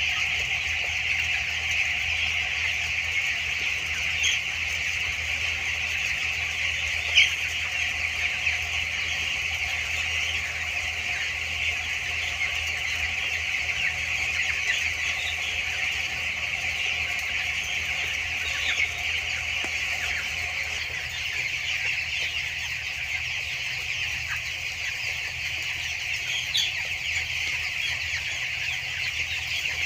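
A large flock of two-week-old broiler chicks calling continuously in a dense chatter of peeps, with a few sharper individual calls standing out. A steady low hum runs underneath.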